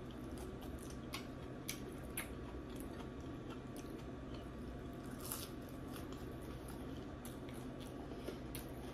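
A person chewing waffle fries close to the microphone: soft, low-level mouth sounds with a few faint crunches and clicks scattered through.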